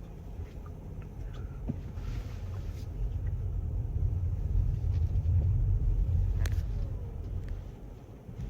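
Garbage truck's diesel engine rumbling as it drives past, growing louder to a peak and then fading away, with a sharp click partway through.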